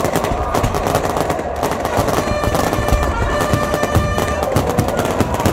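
Fireworks going off in a rapid string of cracks and pops, many reports in quick succession, with music playing underneath.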